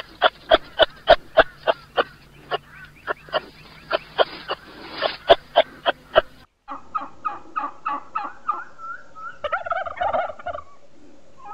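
Fowl calling: a fast run of short, sharp repeated calls, about three to four a second. After an abrupt cut about six and a half seconds in, a different series of higher calls follows, thickening into a chatter near the end.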